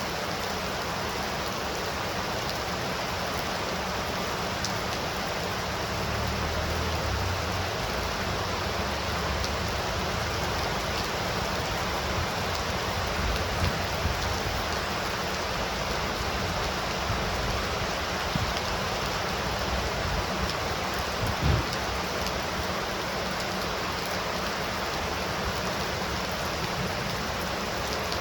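Heavy rain falling steadily, a dense even hiss of drops on surfaces, with a few faint low thumps partway through and one sharper thump about two-thirds of the way in.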